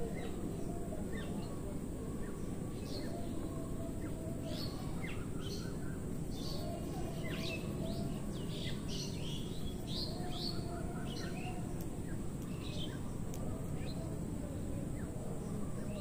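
Birds chirping with many short, quick calls throughout, over steady outdoor background noise.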